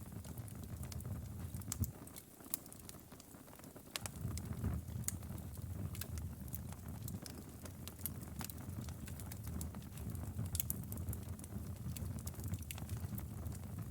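Outdoor wood fire crackling: sharp pops and snaps scattered over a low rush of burning flames. The low rush drops away about two seconds in and comes back about four seconds in.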